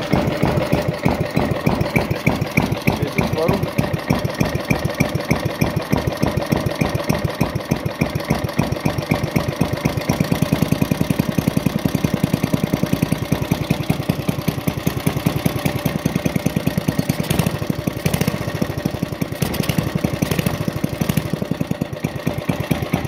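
Kubota GS160 small petrol engine idling steadily, an even run of firing beats. The freshly rebuilt engine is ticking over smoothly.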